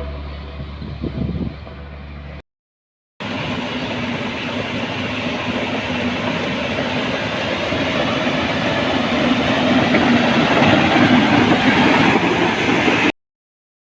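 Heavy machinery noise: a low engine rumble for about two seconds, then, after a brief silent break, a louder, dense mechanical din that grows slightly and cuts off abruptly near the end.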